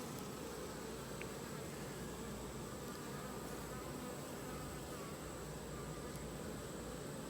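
A honeybee colony buzzing with a steady, even hum, its wingbeats wavering slightly in pitch. The bees are calm, not agitated.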